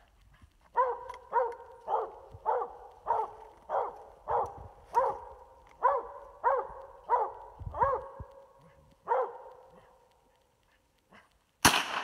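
Female coonhound barking treed at raccoons in the tree, about a dozen barks roughly every half second, stopping about nine seconds in. Near the end a single sharp gunshot cracks and rings out, the loudest sound here.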